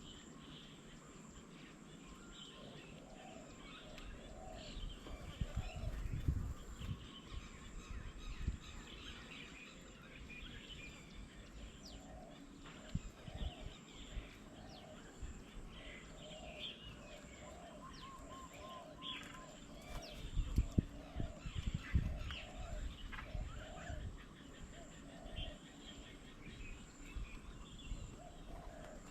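Several wild birds chirping and calling, with a run of repeated low notes from one bird. There are two spells of low rumbling bursts, about five to nine seconds in and again around twenty seconds in, which are the loudest sounds.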